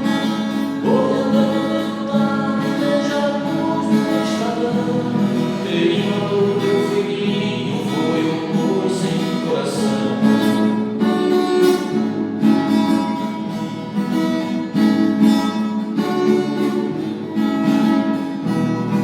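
Acoustic guitar (violão) played with a voice singing along: a song sung to the guitar.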